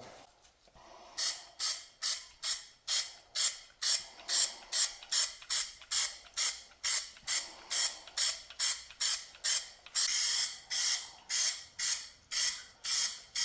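Aerosol can of Rust-Oleum flat gray primer spraying in short, quick, even pulses, about two and a half a second, with one slightly longer spray near ten seconds.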